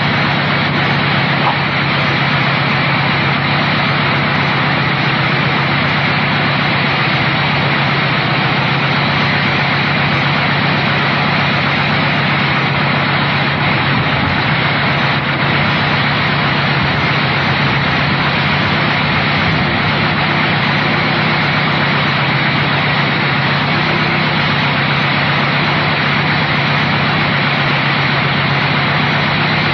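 Dune buggy engine running steadily at a constant speed, a loud, even hum with no change in pitch.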